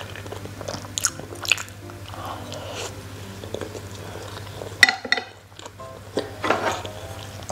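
Close-miked chewing of a rice ball, with small wet mouth sounds and clicks. About five seconds in, a sharp clack with a short ring as wooden chopsticks are set down on a ceramic plate.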